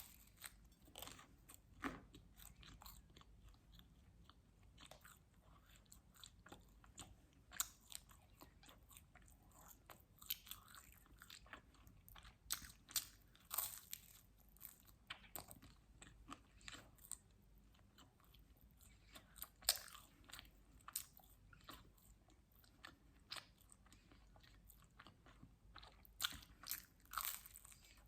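Close-miked chewing and biting of quattro stagioni pizza: many short crunchy clicks and mouth sounds, scattered through and coming in denser clusters a few times, over a quiet background.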